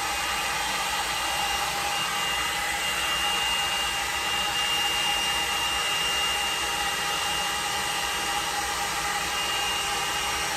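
L'ange blow dryer brush running steadily on wet hair: a constant rush of blown air with a steady high whine from its motor.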